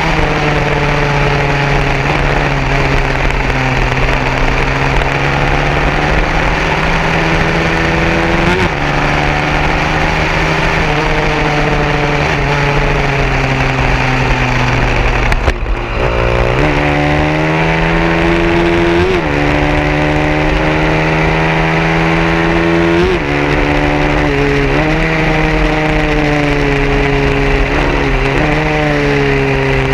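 Small-displacement 150cc racing motorcycle engine running hard, its pitch climbing and then dropping sharply at each gear shift several times, over steady wind and engine noise.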